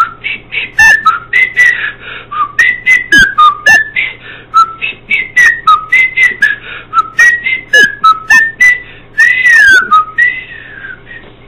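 A tune whistled in quick, short notes that swoop up and down in pitch.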